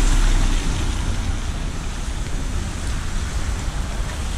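Floodwater running fast down a road: a steady rushing noise with a low rumble underneath.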